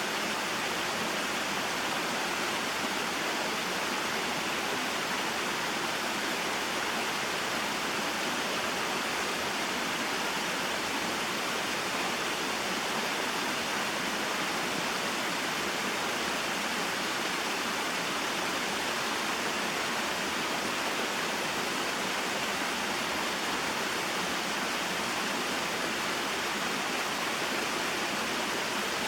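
Small mountain waterfall and stream: water falling and rushing in a steady, even noise.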